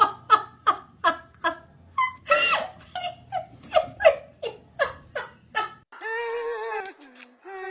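A person laughing hard in a long run of short, evenly spaced bursts, about three a second, then a drawn-out wavering cry near the end.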